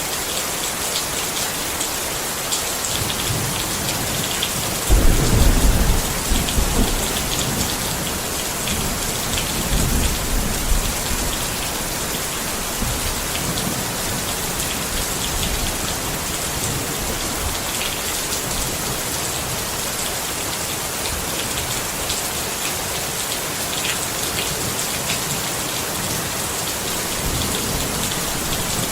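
Steady rain falling on a tent, with a rumble of thunder about five seconds in and a weaker one around ten seconds.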